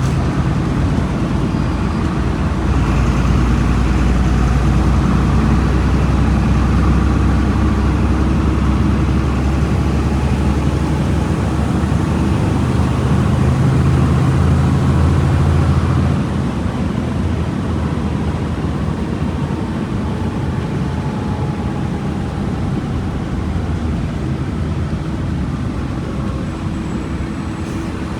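Volkswagen Volksbus 17.230 EOD bus engine running, growing louder about three seconds in and easing back about sixteen seconds in.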